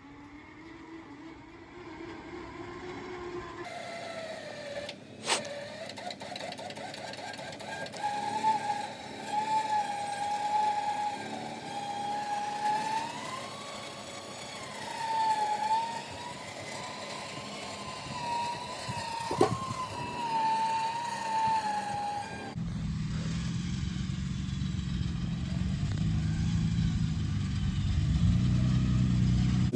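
Electric winch motor whining under load as it pulls a truck up a slope, its pitch wavering as the strain changes, with a couple of sharp clicks. About 22 seconds in it gives way to a vehicle engine running low and steady.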